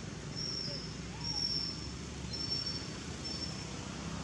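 A bird calling in a series of high, thin, steady whistled notes, four in about three and a half seconds, each about half a second long.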